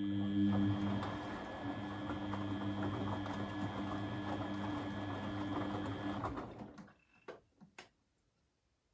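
Beko WMB 71643 PTE washing machine running steadily with a hum and a faint high whine, then stopping about six seconds in, followed by three short clicks.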